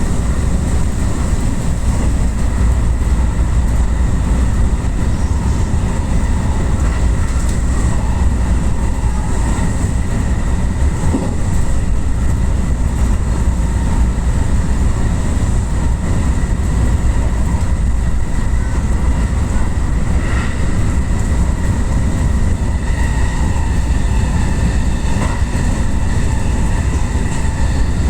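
Electric commuter train of the JR West Yamatoji Line rapid service running along the line, heard from inside at the front behind the driver's cab: a steady, unbroken rumble of wheels on rail with a few constant high tones above it.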